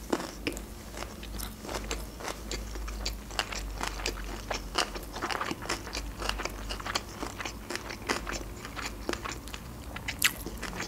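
A person chewing a mouthful of sushi roll with the mouth closed: many small, irregular wet clicks and crunches, with one sharper crunch near the end.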